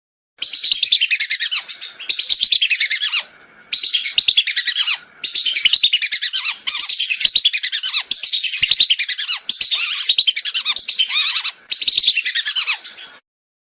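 Whistling duck (belibis) calls played as a hunter's lure recording. Shrill phrases of rapid whistled notes, each ending in a falling whistle, are repeated about nine times with short gaps. The sound starts and cuts off abruptly.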